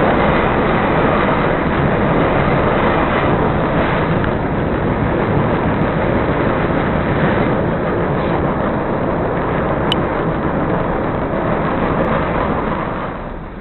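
CTA 2400-series rapid-transit car running at speed, heard from inside the car: a steady, loud rumble of wheels on rail and running gear. It gets quieter just before the end.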